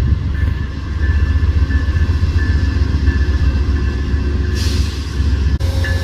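Amtrak passenger train running with a loud, steady low rumble, faint thin high tones coming and going over it. A brief hiss comes in about four and a half seconds in and stops about a second later.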